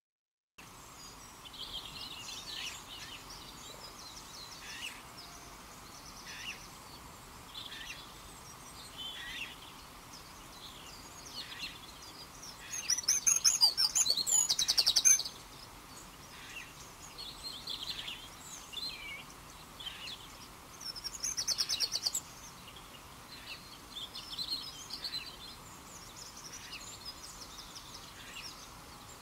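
Small songbirds chirping and singing on and off, with a louder rapid trill lasting a couple of seconds midway and a shorter one about seven seconds later, over a faint steady hiss.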